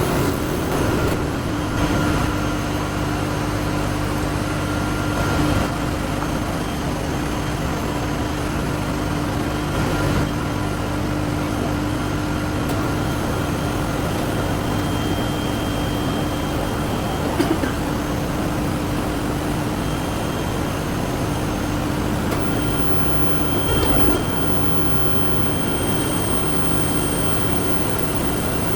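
Workshop machinery running steadily, a continuous mechanical hum and whir with a single sharp metallic knock about two-thirds of the way through.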